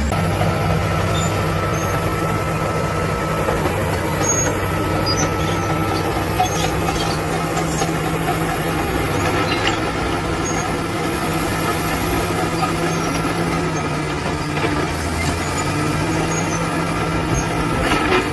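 Bulldozer's heavy diesel engine running steadily, with a few faint knocks over it.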